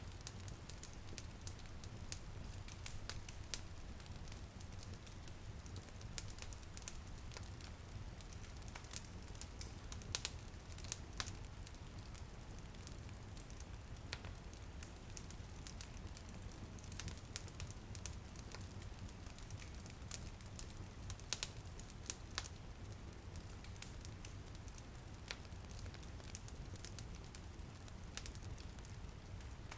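Wood fire in a fireplace crackling, with irregular sharp pops and snaps over a steady low rumble of the flames; a few louder pops stand out around the middle. Light drizzle patters on a window pane underneath.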